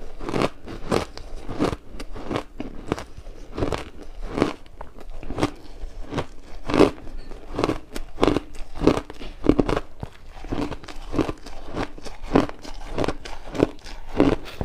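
Ice being bitten and chewed close to the microphone: a steady run of loud crunches, about two a second.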